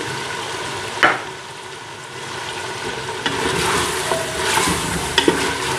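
Mutton and freshly added sliced onions frying in oil in an aluminium pressure cooker on high heat, stirred with a wooden spoon. A sharp knock about a second in, then sizzling and scraping that grows louder from about three seconds in.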